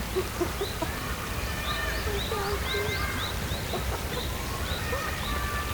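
Natural chorus of birds and other animals calling: many short, high chirps repeated in quick succession, a few held whistles, and scattered short low calls over a steady low background rumble.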